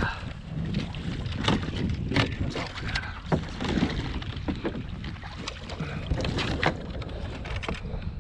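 Wind rumbling on the microphone on a fishing kayak, with a dozen or so irregular sharp knocks and taps from handling on the hull.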